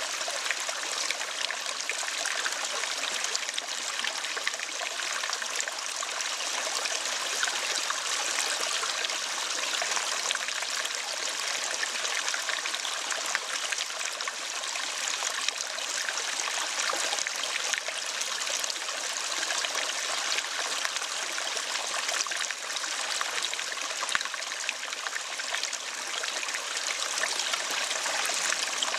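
Running water, a steady stream trickling and splashing without a break.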